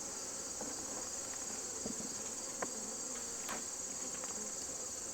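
A steady high-pitched insect chorus under the low buzzing of honeybees around an open hive, with a couple of faint clicks.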